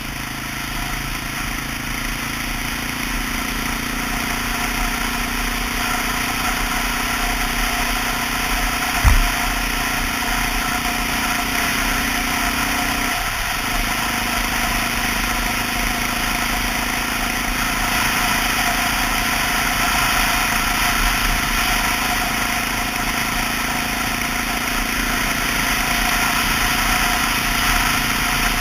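Honda XR650L's single-cylinder four-stroke engine running steadily under way, with constant rushing noise over it. There is a single low thump about nine seconds in, and the engine tone breaks briefly about four seconds later.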